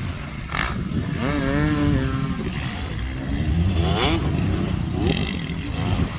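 Motocross bikes racing on the track, several engines revving up and down, their pitch rising and falling as they pass.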